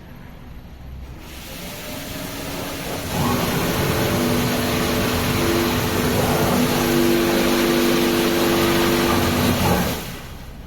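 Touchless car wash machine running: a hiss of high-pressure spray starts about a second in, joined at about three seconds by a louder, steady pump hum with several fixed tones. Both cut off sharply near the end.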